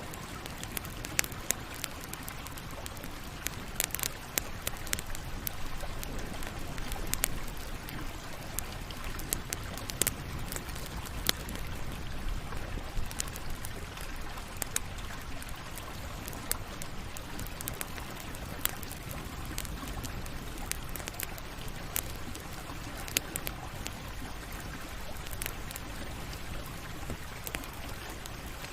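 Campfire burning: a steady low rumble and hiss of flames with irregular sharp crackles and pops of burning wood, a few standing out louder than the rest.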